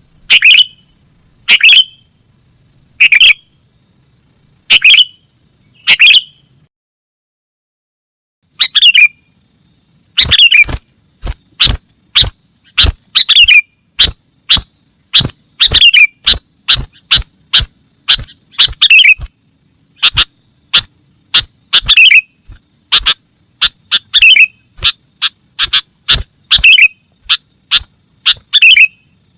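Sooty-headed bulbul (kutilang) calling, played as a bird-trapping lure: loud, sharp, falling call notes about every second and a half, cutting out for about two seconds near a quarter of the way in, then resuming faster with quieter notes in between. A steady high-pitched hum runs underneath.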